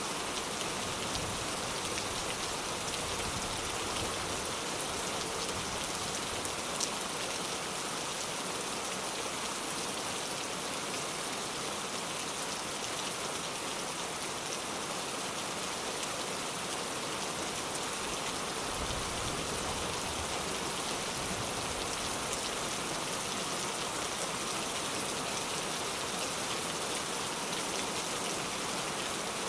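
Steady rain falling, a constant even hiss with scattered individual drops ticking.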